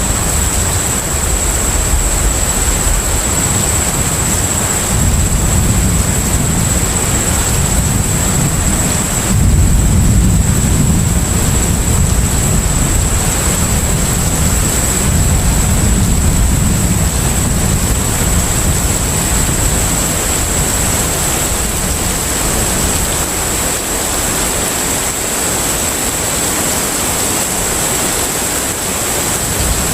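Container ship at sea: a steady low engine rumble that swells and eases slowly, under an even wash of sea noise, with a thin high steady whine throughout.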